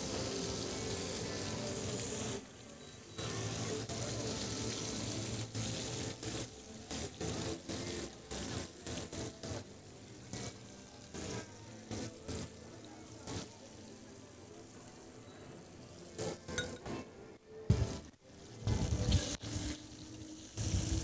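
Fish frying in oil in a pan, sizzling steadily, louder for the first couple of seconds, with short clicks and scrapes of a utensil in the pan as the pieces are moved.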